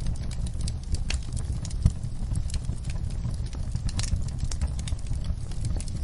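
Wood fire crackling: irregular sharp pops and snaps over a steady low rumble of the flames, with one louder pop about two seconds in.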